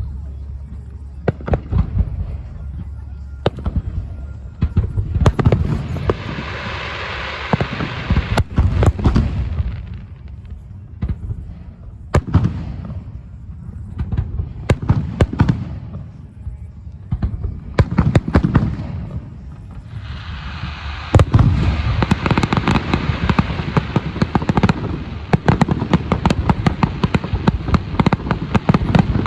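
Aerial fireworks exploding: a run of sharp bangs throughout, with dense crackling from about five seconds in and again from about twenty seconds on, when the bangs come in quick succession.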